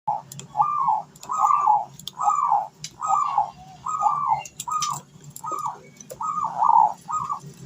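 Zebra dove (perkutut) singing a run of about ten soft coo notes, each rising and then falling in pitch, some in quick pairs. Faint clicks and a steady low hum sit underneath.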